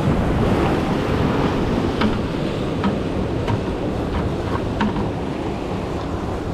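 Wind buffeting the microphone over the rush of ocean surf, with a few light clicks scattered through the middle.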